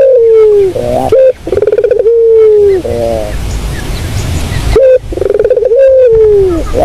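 Barbary dove (burung puter) cooing: low two-part coos, each a short note followed by a long drawn-out note that falls in pitch at its end. Three of them, with a pause of about two seconds before the last.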